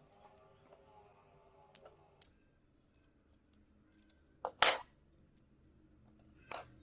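A few light clicks, then two short, sharp scraping or snipping noises about two seconds apart, the first the loudest: small hand tools at work.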